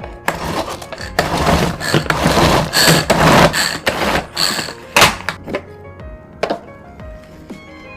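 Close-miked chewing and crunching of food, a dense stretch of crunching followed by a few sharp clicks, over background music.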